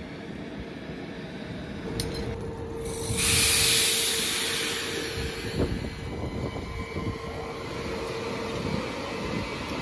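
A Kawasaki M8 electric multiple-unit train moving past on the rails with a steady rumble. A steady tone comes in about two seconds in, and a loud burst of hiss rises about three seconds in and fades over the next two seconds.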